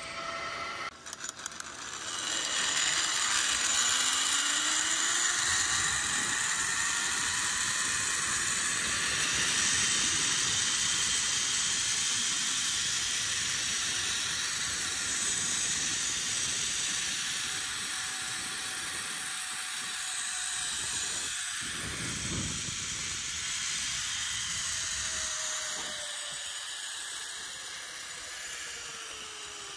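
Zipline trolley pulleys running along a steel cable: a loud whirring hiss that builds about two seconds in, with faint whining tones sliding in pitch, easing slightly near the end.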